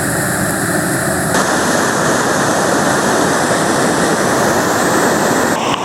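Rushing water of river rapids close by: a loud, steady rush that turns brighter about a second and a half in.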